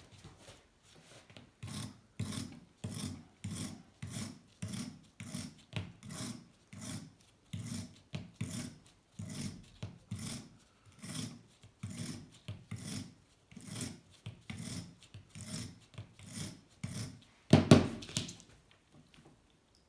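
Hand wire brush scrubbing a bicycle frame in steady back-and-forth strokes, about two a second, with one louder scrape near the end.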